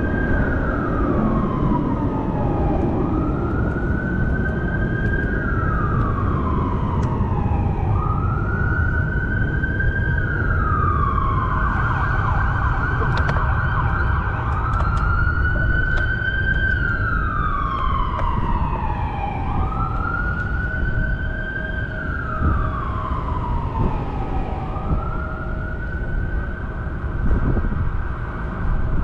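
Emergency vehicle siren on a slow wail, its pitch rising and falling about every five seconds, over a steady low rumble of traffic and wind.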